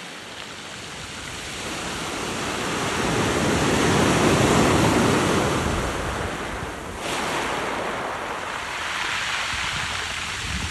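Sea surf washing in and drawing back, with wind buffeting the microphone; the wash swells to its loudest about halfway through, eases off, and builds again near the end.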